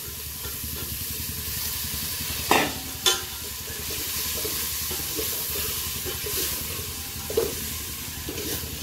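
Fresh green chickpeas frying and sizzling in hot ghee with onions and spices in a steel pot while a spoon stirs them, a steady hiss throughout. The spoon knocks sharply against the pot twice a few seconds in and once more lightly near the end.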